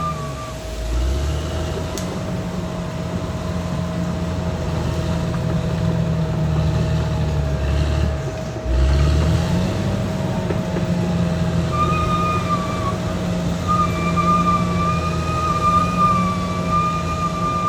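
Caterpillar D6R XL bulldozer's diesel engine running under working load, its note dipping and recovering twice as it lugs. A high, slightly wavering whine from the machine comes back about twelve seconds in.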